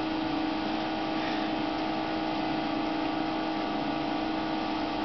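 Steady electrical hum with a constant low tone and an even fan-like hiss, unchanging throughout, from equipment running in a small exam room.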